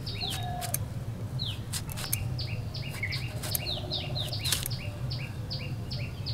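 Small birds chirping over and over in short falling notes, several a second, mixed with sharp crisp clicks of a boti blade slicing through raw banana stem.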